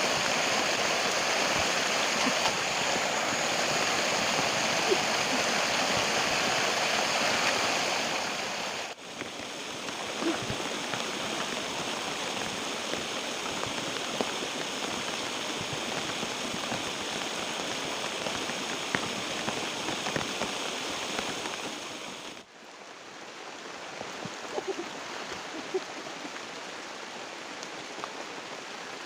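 Stream water running with a steady rush. The level drops suddenly twice, about nine seconds in and again about twenty-two seconds in.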